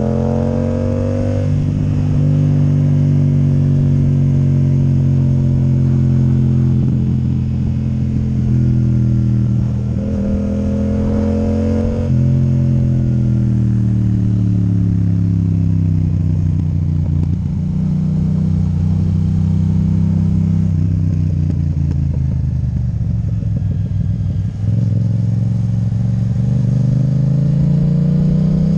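Yamaha MT-07's 689 cc parallel-twin running through an Akrapovic titanium exhaust with the dB killer removed. Revs climb and then drop sharply about a second in, climb again around ten seconds and drop, ease down slowly for several seconds, and rise again near the end.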